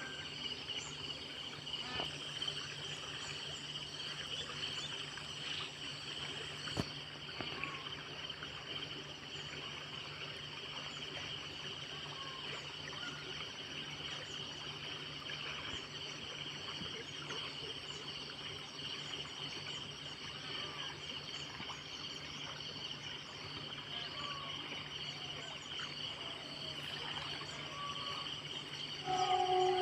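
Steady chorus of insects: a continuous high buzz with a faster pulsing chirp above it, over a low steady hum, with a few short bird calls. Just before the end a louder sound with a steady pitch breaks in.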